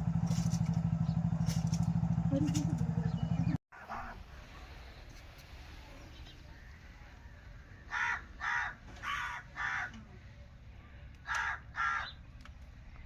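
An engine running steadily with an even pulse, cut off abruptly about a third of the way in. Later comes a bird calling in short calls, four in quick succession, then two more near the end.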